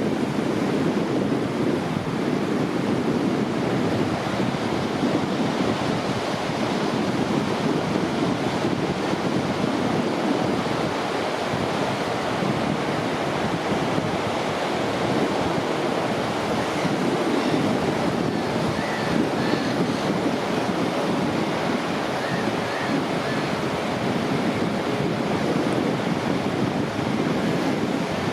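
Steady wash of ocean surf breaking on a beach, with wind rumbling across the microphone.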